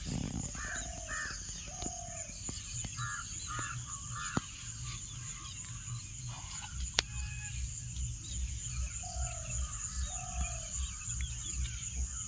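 Birds calling in short, repeated calls, often in groups of two or three, some lower and falling in pitch, over a steady high-pitched hiss. A sharp click about seven seconds in.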